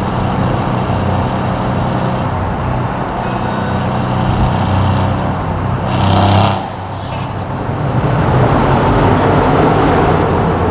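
Mercedes-AMG C63 S's twin-turbo V8 engine droning steadily with road noise while cruising. There is a brief louder rush about six seconds in.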